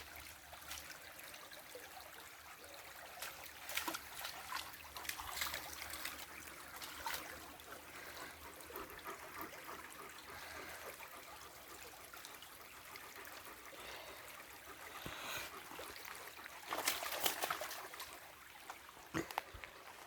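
Shallow river trickling steadily, with scattered splashes of dogs wading in it and a louder burst of splashing near the end.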